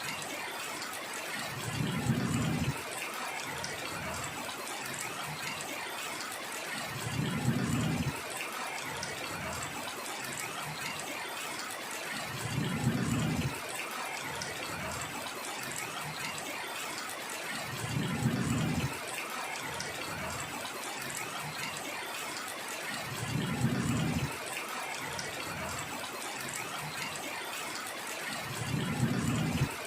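Heavy rain falling with a steady hiss. A brief low rumble comes about every five and a half seconds, six times in all.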